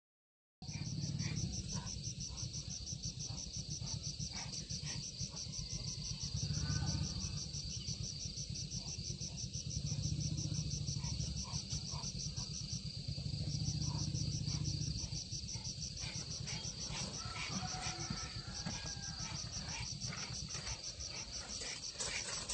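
Insects, crickets by their sound, chirping in a fast, even pulsing trill that pauses briefly about halfway through, over a low rumble that swells and fades several times. The sound starts suddenly about half a second in.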